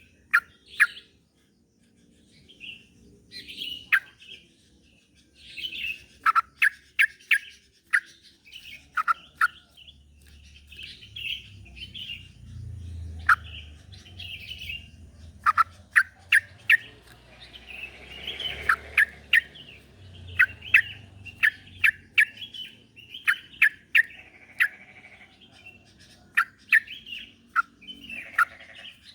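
Yellow-vented bulbul (trucuk) calling: quick clusters of short, sharp downward chirps mixed with bubbly warbled phrases, repeated throughout. This is a call played to stir a reluctant bulbul into singing.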